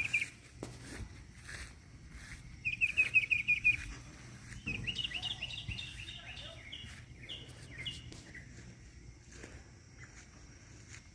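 Small birds chirping: a quick run of about ten short, high chirps around three seconds in, then a longer string of varied chirps from about five to eight seconds, over a faint steady background hum.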